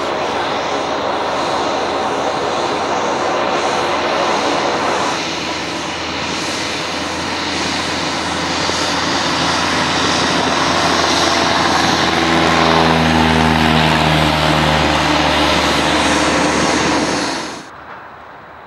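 A light propeller aircraft's engine running loud and close, growing louder in the last few seconds with its pitch falling as it passes, then cutting off suddenly near the end.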